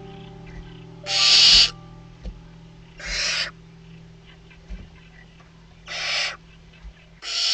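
Barn owl nestlings giving their hissing 'snoring' begging calls: four rasping hisses of about half a second each, one to three seconds apart, with the loudest a second in.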